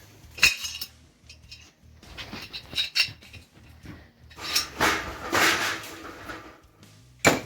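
Metal tools and parts clinking and clattering as they are handled: a sharp clank about half a second in, a few knocks around two to three seconds, a longer rattling clatter around five seconds, and a sharp clack near the end.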